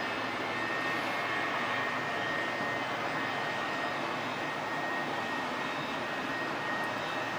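Jet airliner engines running, a steady high whine over a continuous broad rush of noise.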